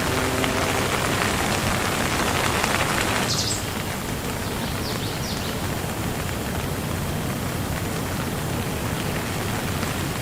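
Steady rain falling. It is louder and brighter for the first three and a half seconds, then softer and duller, with a few short high-pitched chirps in between.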